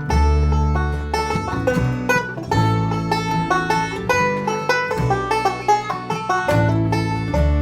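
Instrumental break of a bluegrass-style song: banjo picking quick runs of notes with acoustic guitar, over upright bass notes held and changed every second or two.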